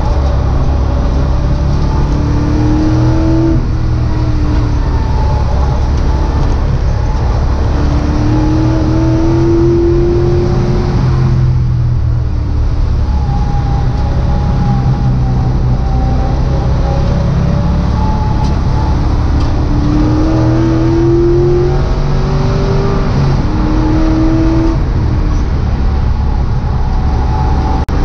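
Freshly rebuilt GM LS V8 in a Mazda Miata race car, heard from inside the cabin at full throttle on track. The engine note climbs in pitch and breaks off at each upshift, eases off about twelve seconds in, then pulls up through the gears again.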